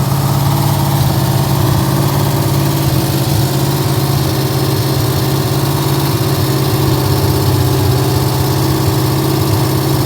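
Rebuilt Ford 289 V8 running steadily at a fast idle of about 2500 rpm during its first-start break-in run.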